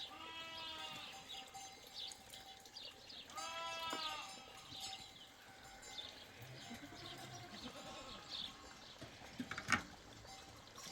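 Small livestock bleating: two long bleats, one at the start and another about three and a half seconds in, then a lower, quieter call a little past the middle. A sharp click sounds near the end.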